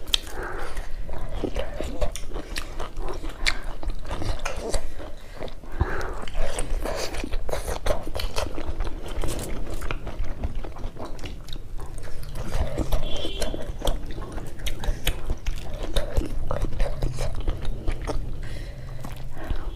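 Close-miked chewing and biting by two people eating beef innards and meat curry with rice, a dense, irregular run of small mouth clicks and smacks.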